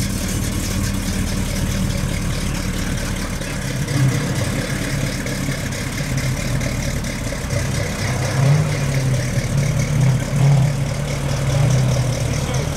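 1972 Hurst/Olds Cutlass V8 running at low speed as the car rolls away, with a steady deep exhaust rumble and several short throttle blips in the second half.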